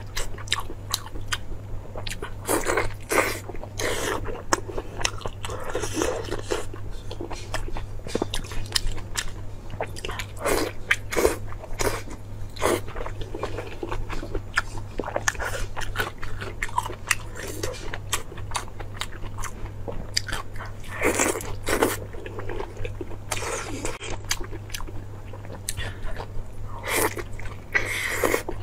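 Close-miked biting and chewing of soft, glossy braised pork, with many short wet smacks and mouth clicks. A steady low hum runs underneath.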